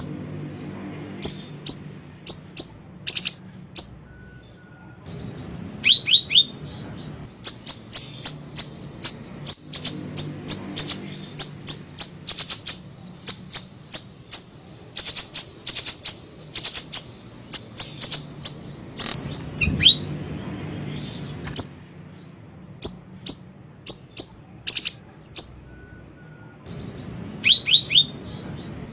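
A small siri-siri bird calling with sharp, high-pitched chirps, each a quick downward sweep. They come in fast runs of many notes with short pauses between the runs, over a faint low hum.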